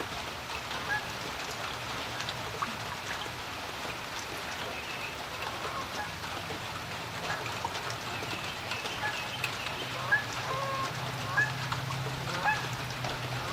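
Steady rain falling on a creek, with many small drop hits. Short bird calls sound several times in the second half, the loudest about three times near the end. A low steady hum comes up in the second half.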